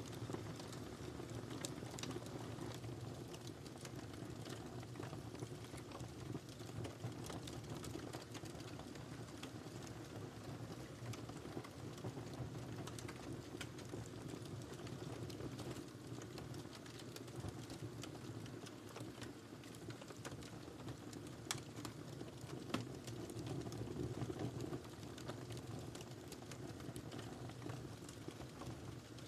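Wood fire crackling in a fireplace: a steady low rush of burning with frequent small snaps and a few louder pops a little past the middle.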